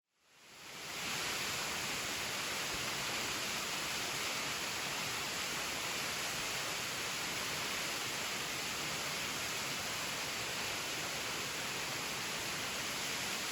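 Steady rushing of water falling from a tall plunge waterfall. It fades in over about the first second, then holds even.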